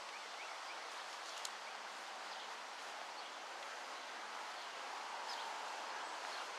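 Steady outdoor background noise, a soft even hiss like leaves rustling in a breeze, with a faint click or two.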